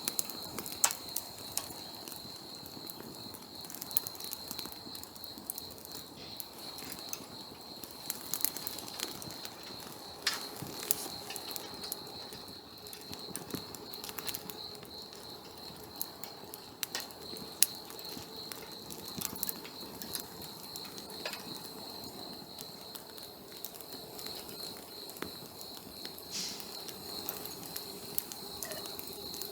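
Wood campfire crackling, with irregular sharp pops and snaps. A steady high-pitched tone runs behind it.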